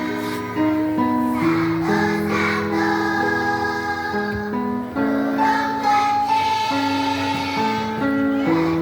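A kindergarten children's choir singing a song in unison over instrumental accompaniment that holds steady chord notes.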